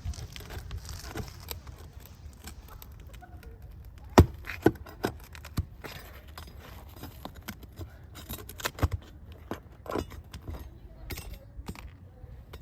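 Hands and a tool working at old asphalt roof shingles to pry them up: irregular clinks, knocks and scraping, with a burst of sharp knocks about four seconds in and more near the end.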